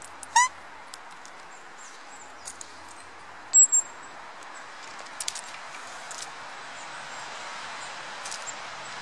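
Small forest birds calling: a short rising squeak about half a second in, then two very high thin notes a few seconds later. Under them are light clicks and scratches from a Eurasian red squirrel handling sunflower seeds at a hand.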